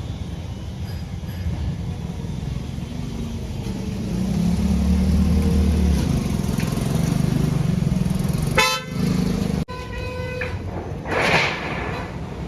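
A vehicle engine running, louder from about four to eight seconds in, with a vehicle horn sounding briefly twice in the last few seconds.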